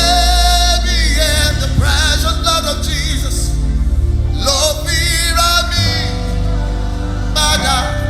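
Live gospel worship music: a man singing with vibrato over sustained instrumental backing.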